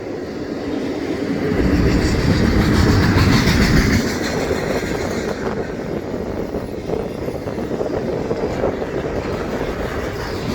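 Intermodal freight train rolling past on steel wheels, with the clickety-clack of wheels over the rail joints. It grows louder about a second and a half in, is loudest a couple of seconds later, then runs on steadily.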